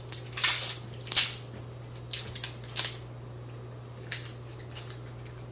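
Plastic wrapper crinkling and tearing in several short bursts over the first three seconds, typical of a cheese-stick wrapper being opened, then only a few faint ticks over a steady low hum.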